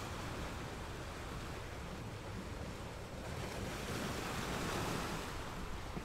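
Calm ocean surf on a sandy beach: small waves breaking and washing up the shore, one wave swelling louder a little past halfway and then drawing back.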